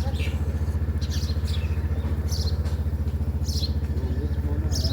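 Small birds chirping in short, high, down-sliding notes about once a second, over a loud, steady, low throbbing hum of an idling engine.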